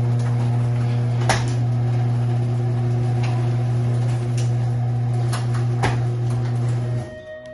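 Cub Cadet snowblower engine running steadily at an even pitch, now started after troubleshooting, with a few sharp clicks over it. The sound cuts off suddenly near the end.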